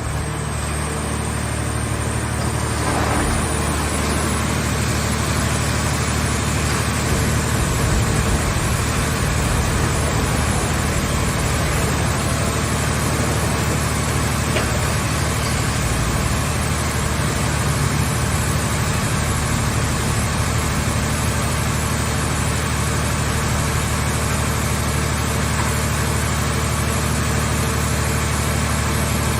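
A scrap car baler's engine and hydraulic drive running steadily.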